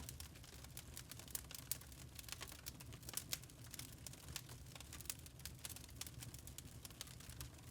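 Wood fire crackling in a fireplace: irregular sharp pops and snaps, several a second, over a faint low rumble of the flames.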